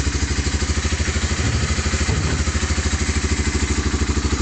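1988 Honda Fourtrax TRX300's air-cooled single-cylinder four-stroke engine running steadily at idle, an even, rapid exhaust beat.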